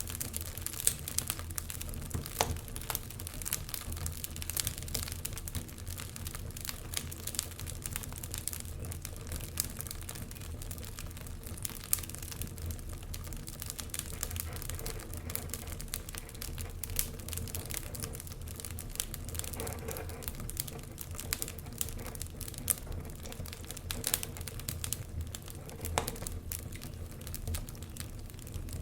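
Wood fire of burning logs crackling steadily, with frequent small sharp pops and snaps and a low rumble underneath.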